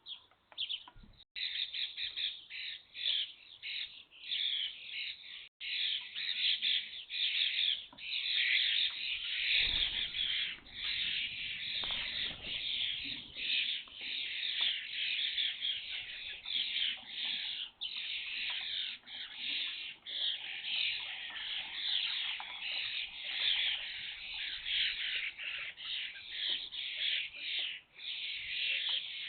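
A flock of young common starlings calling at a feeding station, a dense nonstop chatter of harsh overlapping calls. A couple of low thumps come through near the middle.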